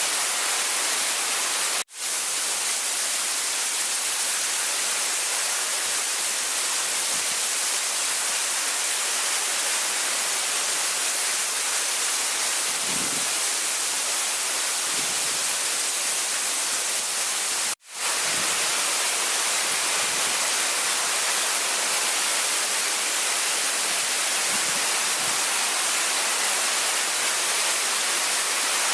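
Waterfall pouring, a loud, steady rushing hiss. Twice it drops out for a split second before coming straight back.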